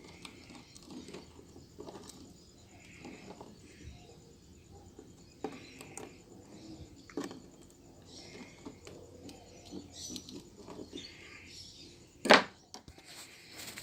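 Small handling noises of modelling work at a bench: faint scattered taps, rustles and scrapes, with one sharper click about twelve seconds in.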